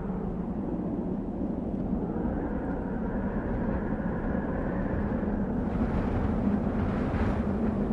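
Desert wind blowing steadily with a deep rumble, swelling into a stronger, hissier gust about three-quarters of the way through.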